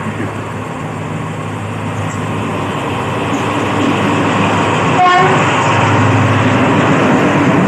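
Diesel-hauled express train approaching and running past close by. The locomotive's engine hums steadily and the rumble of the wheels on the rails grows louder as it nears.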